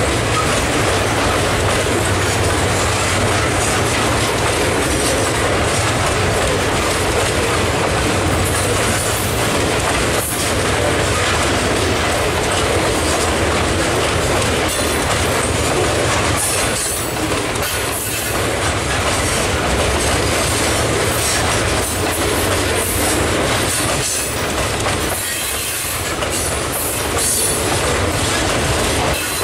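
Steel wheels of loaded hopper cars in a slow freight rock train rolling over the rails: a steady, continuous rolling noise of the passing cars.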